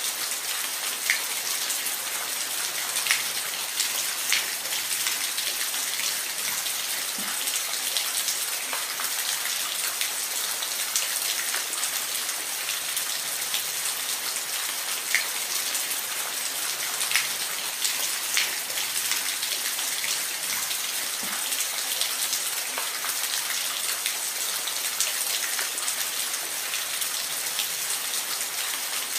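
Steady rain falling, a constant hiss with many individual drops pattering sharply on a hard surface.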